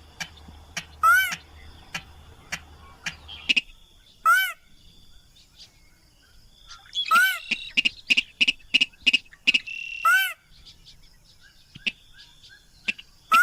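Sintar crake calling: loud arched calls that rise and fall, repeated about every three seconds, with a quick run of sharp ticking notes in the second half. It is a lure call used to draw other crakes in.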